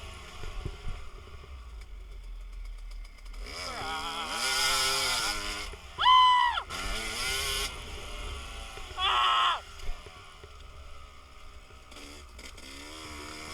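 Dirt bike engines revving, their pitch rising and falling several times, with the sharpest, highest rev about six seconds in. Low wind rumble on the microphone runs underneath.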